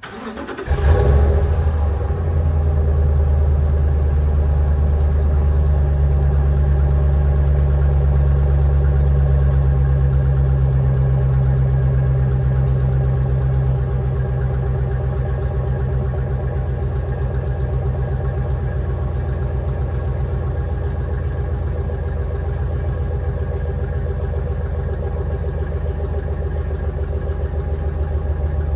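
Pickup truck engine starting up about a second in, then idling steadily; the idle eases a little lower about halfway through.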